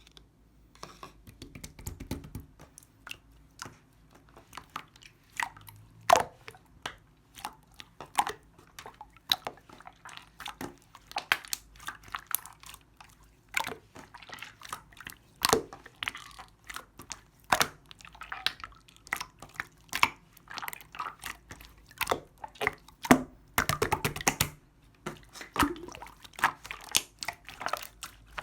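Teal clear slime being worked by hand, giving many sharp wet clicks and pops at irregular intervals, with a denser run of crackling a few seconds before the end.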